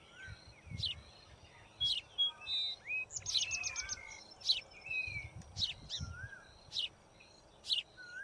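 Several birds calling: sharp, high chip notes about once a second, mixed with short whistled slurs and a brief rapid trill about three seconds in.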